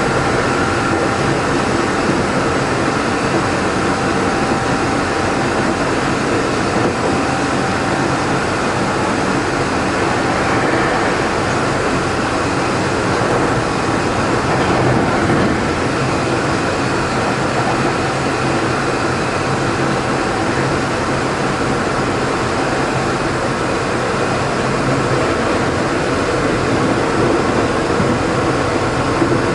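Tokyo Metro 03 series chopper-controlled train running between stations, heard inside the car as a steady rumble of wheels and running gear with faint steady tones in the first several seconds. The car's traction motor has a slight abnormal sound.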